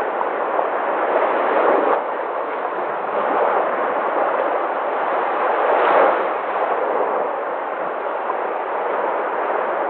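Sea waves washing in and breaking in a continuous rush, swelling to a loudest surge about six seconds in.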